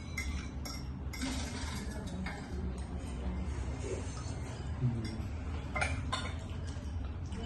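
Cutlery clinking against dishes while noodles are eaten: scattered light clinks, with a busier stretch of clatter about a second in. A low hum runs underneath.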